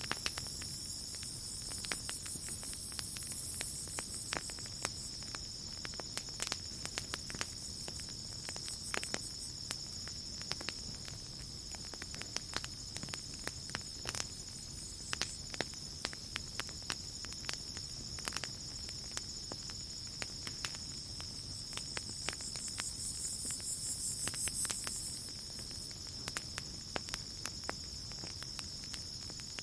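Campfire crackling, with frequent sharp pops, over a steady high trill of crickets. A second, higher insect buzz swells up twice and fades again.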